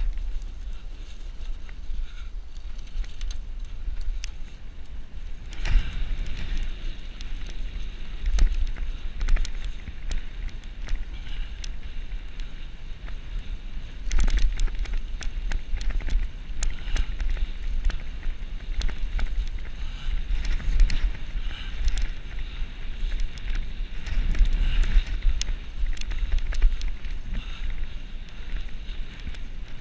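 Bicycle riding over a rough forest track: wind buffets the microphone in a steady low rumble, with scattered clicks and rattles from the bike. The rattling grows busier about five seconds in and again about halfway through.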